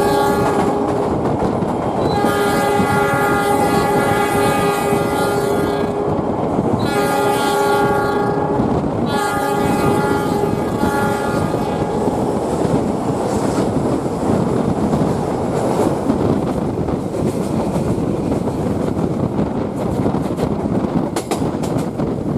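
Diesel train's horn sounding long blasts, one running on from before and three more, the last ending about twelve seconds in, over the steady rumble of the train running on the rails, heard from aboard. After the horn stops, only the train's running rumble remains.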